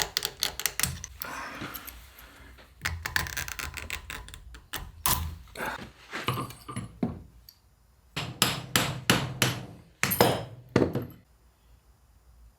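Repeated hammer blows and metal knocks on the parts of a Land Rover Series gearbox being dismantled, coming in several bursts and stopping about a second before the end.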